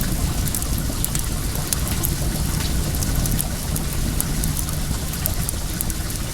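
Well water running steadily, with scattered small crackles and pops from a wood fire burning.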